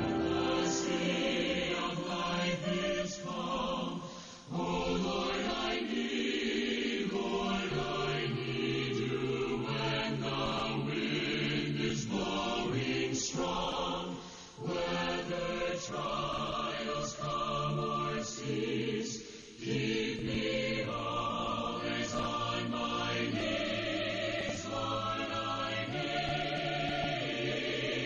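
A choir singing a slow hymn in long, held phrases, with short breaks between phrases.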